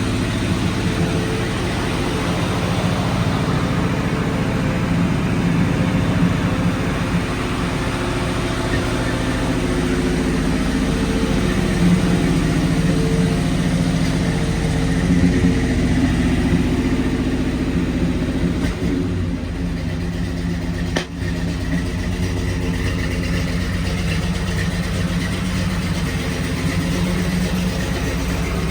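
The engine of a 1941 Chevrolet COE truck running steadily at idle, with a couple of brief rises in loudness around the middle.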